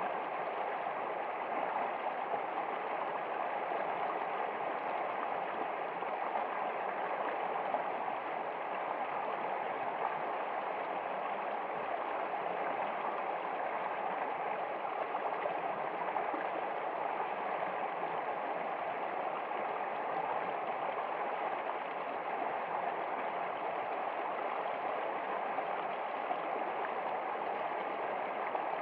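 Running water flowing steadily, an even rush with no breaks or changes.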